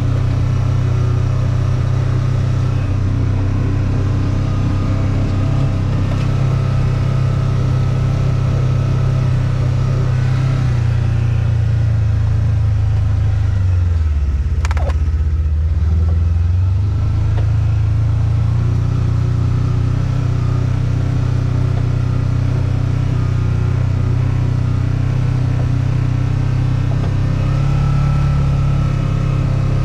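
A vehicle engine running steadily, its pitch sagging for a few seconds about midway and then climbing back, with a brief high falling squeak near the middle.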